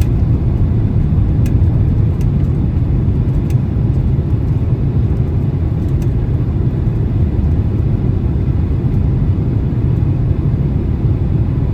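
Steady low roar of airflow and engines inside the cabin of a Boeing 767-300 on final approach through gusty, turbulent wind, with a few faint clicks in the first half.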